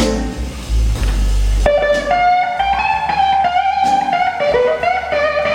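Live blues band playing a slow blues, with heavy bass at first; about a second and a half in, an electric slide guitar takes a lead line of gliding, bending notes.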